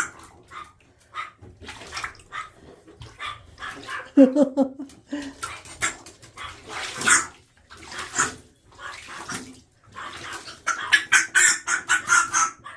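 Water splashing and dripping as a parrot's feet are wetted, with a short bark about four seconds in.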